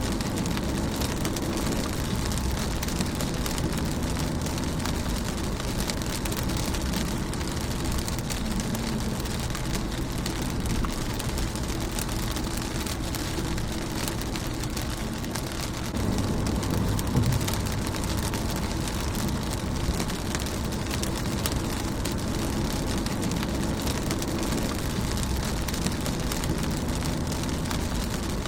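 Rain falling on a car's windscreen: a steady hiss with many separate drop hits over a low rumble, which grows louder about halfway through.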